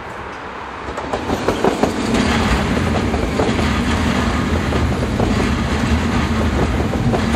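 NS VIRM double-deck electric train passing close by at speed. Its rumble on the rails swells over the first two seconds, then holds steady with repeated clacks of the wheels over rail joints.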